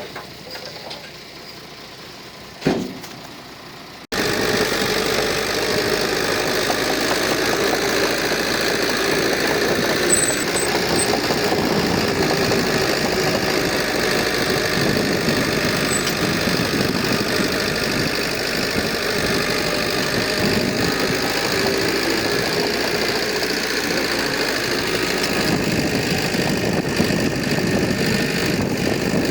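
Heavy earthmoving machine's diesel engine running steadily. About four seconds in, a quieter stretch with a single knock gives way abruptly to the loud, steady engine noise.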